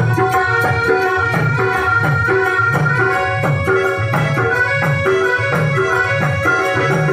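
Instrumental passage of a live Rajasthani folk devotional bhajan: a melody of held notes over a steady hand-drum beat, about two strokes a second.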